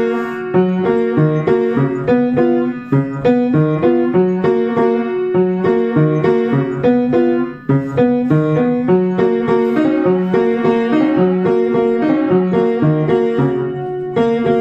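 An old piano being played: a tune of chords over a steady, regularly repeating bass line, with a brief break a little past the middle.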